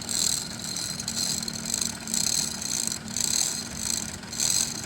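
A vehicle engine idling with a steady hum, under a high rasping rattle that swells and fades about once a second.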